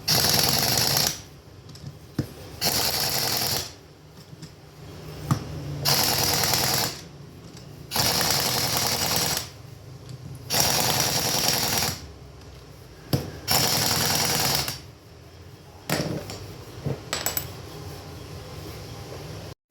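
A power tool run in repeated short bursts: about six loud bursts of a second or so each, two to three seconds apart, with a weaker one near the end.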